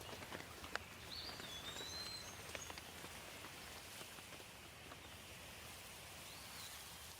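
Light rain falling steadily, with scattered sharp drips. A songbird gives a short whistled call about a second in and a fainter one near the end.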